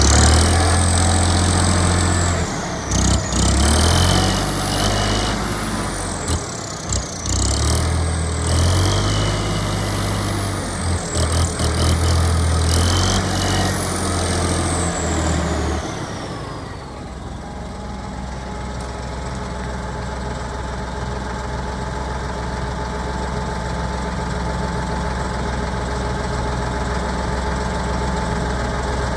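Valtra A93 tractor's diesel engine running loudly for about sixteen seconds, with a high whine rising and falling over and over as the revs change. It then drops back to a steady idle.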